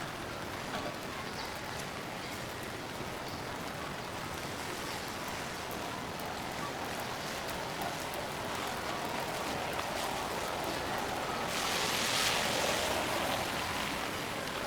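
Steady rain falling on a wet city street, with a louder hiss lasting about two seconds near the end.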